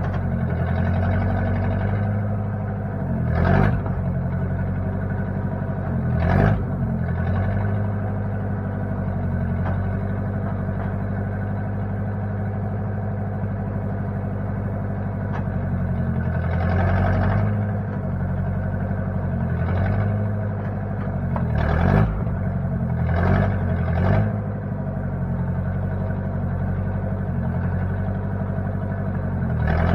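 Backhoe engine running steadily. Its pitch sags briefly and recovers several times, each sag with a short, louder burst of noise.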